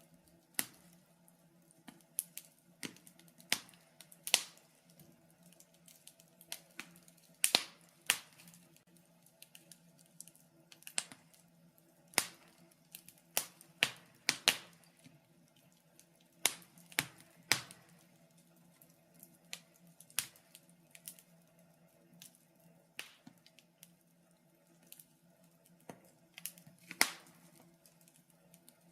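Wood fire in a fireplace crackling, with irregular sharp pops and snaps, several louder than the rest, over a faint steady hum.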